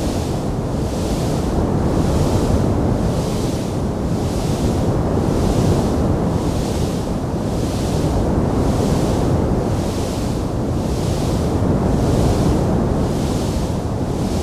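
Wood fire burning with a steady, low rushing noise. A softer hiss swells and fades about once a second, and no separate crackles stand out.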